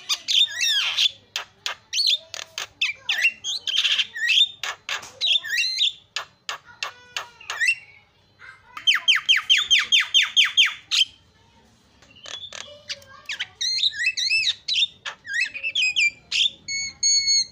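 Javan myna (jalak kebo) singing a varied, chattering song of harsh squawks, clicks and whistled notes. About halfway through it gives a quick run of evenly repeated notes, about six a second, pauses briefly, and near the end holds a few pure whistles.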